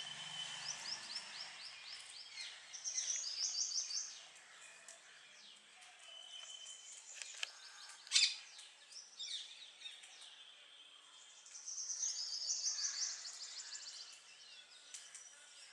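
A woodpecker calling in two rattling bursts of rapid, high repeated notes, with fainter calls between. About halfway through there is a single sharp click, the loudest sound.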